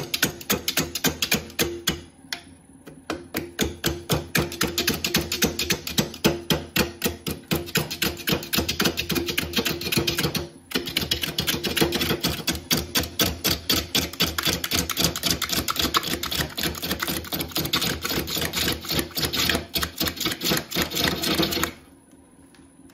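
Gouge knocking against an out-of-round wood burl spinning on a wood lathe: a rapid, even run of knocks over a steady hum, the cut interrupted by the burl's irregular, unbalanced shape. It drops off briefly twice and stops abruptly near the end.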